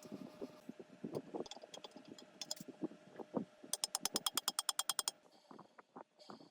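Hand-tool work on metal: scattered knocks and clinks, then a quick, evenly spaced run of about a dozen sharp clicks lasting over a second, about halfway through.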